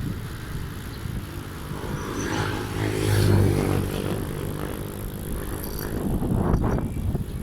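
A motor vehicle passes close by on the road, its engine growing louder to a peak about three seconds in and then fading. Wind buffets the microphone throughout.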